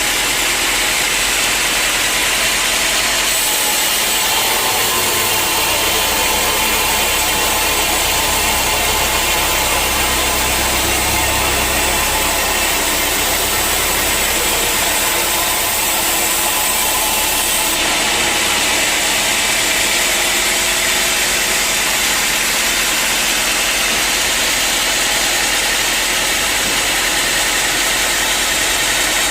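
Sawmill machinery running steadily with a loud, even hiss. The high part of the sound brightens about 3 s in and drops back around 18 s, as when the saw works through teak wood.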